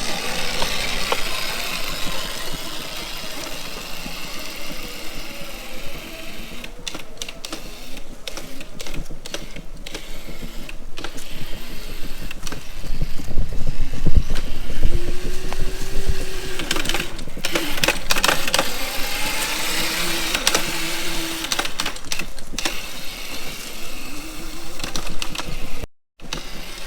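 Razor MX350 electric dirt bike's motor whining, its pitch rising, holding and falling as the throttle is worked, over a steady rushing noise with occasional knocks.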